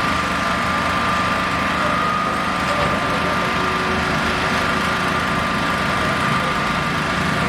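An engine running steadily at idle: a constant low hum with a thin, steady high whine over it.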